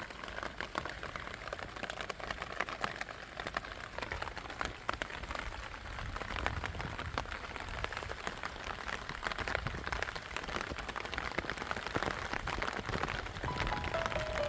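Steady rain falling, a dense patter of many drops ticking. Music comes in near the end.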